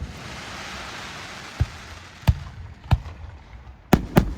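Fireworks display: aerial shells bursting with sharp bangs, five of them in irregular succession, two close together near the end. Under them, a hissing crackle fades away over the first couple of seconds.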